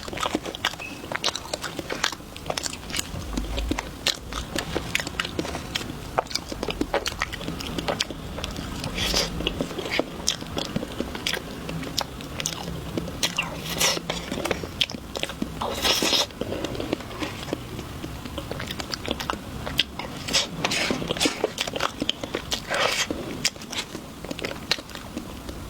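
Mukbang eating sounds: a person biting into and chewing chocolate and ice cream, with many sharp crunches and wet mouth clicks. The crunches come in louder clusters several times.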